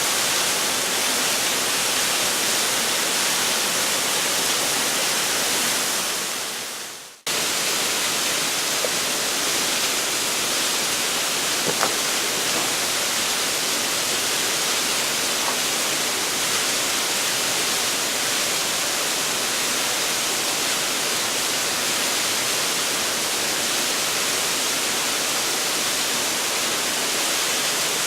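Waterfall rushing with a steady, loud roar of falling water. It fades out about seven seconds in and cuts back in abruptly at full strength.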